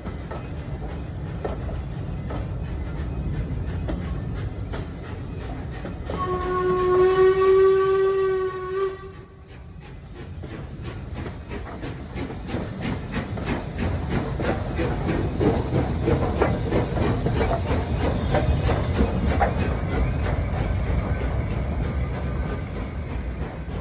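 Royal Scot steam locomotive sounding its whistle, one steady blast of about three seconds, amid the noise of the running train; after the whistle the train's rapid rhythmic beat and clatter grow louder.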